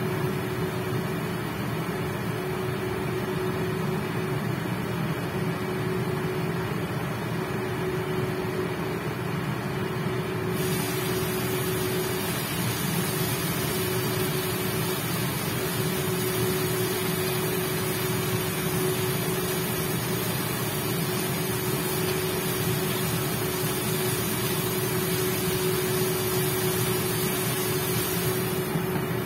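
Induction cooktop's cooling fan running steadily with a constant hum, under chicken pieces frying in a non-stick pan. About ten seconds in the lid comes off and a bright sizzle is heard, which dulls again near the end as the lid goes back on.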